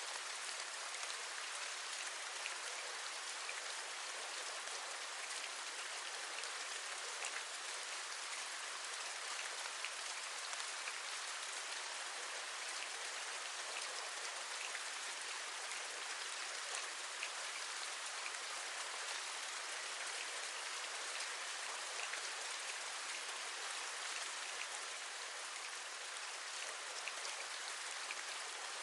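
Steady rain: a constant hiss with many small, sharp drop taps scattered through it.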